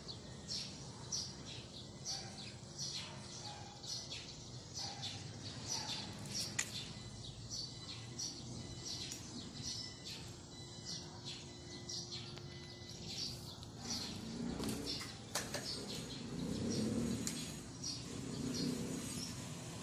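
A small bird chirping over and over, about twice a second, with short high notes. Muffled low sounds come in during the last few seconds.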